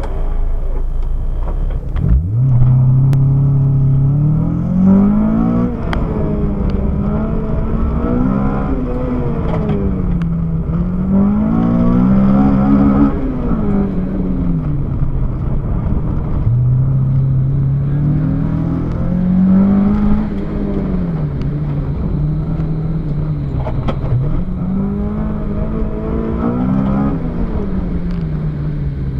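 Car engine heard from inside the car during an autocross run: it launches about two seconds in, then the revs rise and fall over and over as the car accelerates and slows through the cone course.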